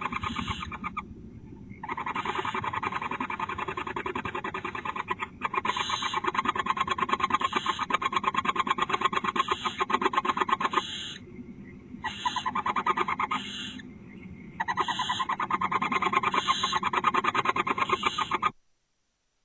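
Barn owls in the nest box making a rapid chittering call, in bouts broken by short pauses, which stops abruptly near the end.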